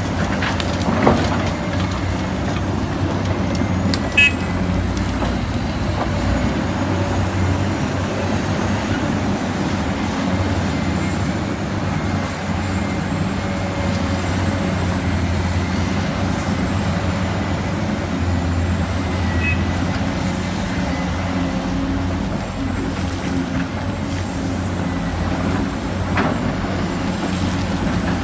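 Radio-controlled construction vehicles running: a steady low engine-like drone with a thin high whine above it, and sharp clicks about one and about four seconds in.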